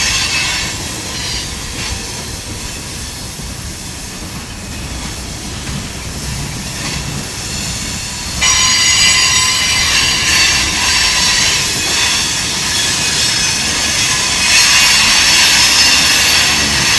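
Loaded freight train of tank cars rolling past close by: a steady rumble of steel wheels on rail under a high-pitched metallic squeal from the wheels, which turns suddenly louder about eight seconds in.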